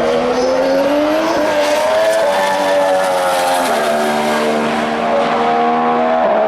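2014 Formula One car's 1.6-litre turbocharged V6 hybrid engine running on track. Its pitch rises over the first second or two, falls away, then drops in a step about halfway through.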